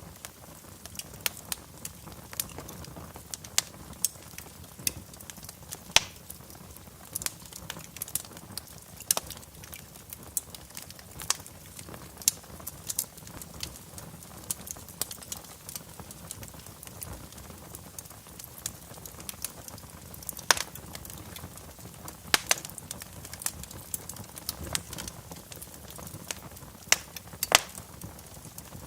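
Wood fire crackling in a fireplace: irregular sharp pops and snaps, a few of them louder, over a soft steady hiss of burning.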